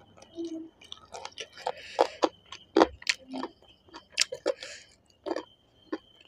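Close-up eating sounds from chicken curry and rice eaten by hand: wet chewing and lip smacks, with fingers picking through food on a steel plate. They come as a string of sharp clicks and crackles starting about a second in.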